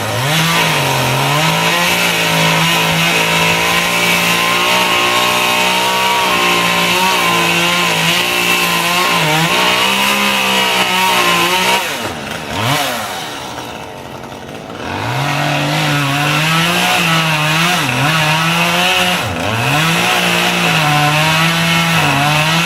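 Chainsaw running at full throttle, cutting into a tree. About halfway through it drops off the throttle for a few seconds, then revs back up and keeps cutting.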